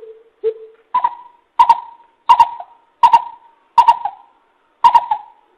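Coucal (bìm bịp) calling: a series of about eight short, deep hoots at a steady pace, a little over one every second. The first three are lower, and the rest step up about an octave higher.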